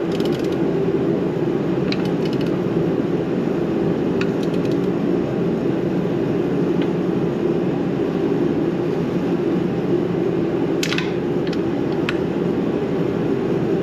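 Steady drone of a running fan or air-moving unit. A few light metallic clicks and clinks come through it, from hand tools on the clutch pressure-plate bolts, the sharpest about eleven seconds in.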